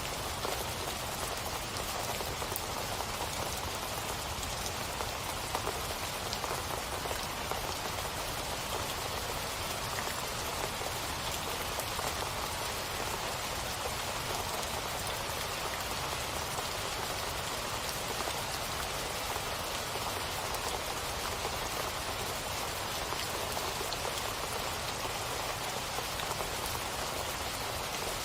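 Steady rain falling, an even hiss of many drops with faint scattered patters and no change in strength.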